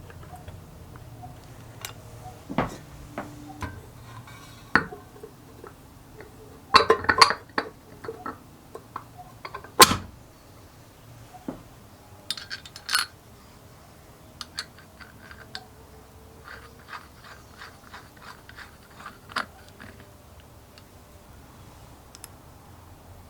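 Small metal parts and hand tools clinking and tapping on a workbench: scattered sharp clicks and knocks, loudest about 7 and 10 seconds in, then a run of evenly spaced light ticks.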